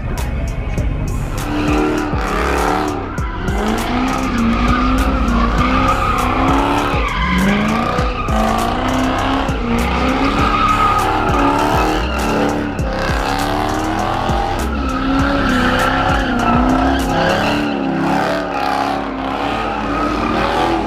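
A car spinning donuts: its tyres squealing with a wavering pitch that rises and falls, over the engine revving hard, throughout.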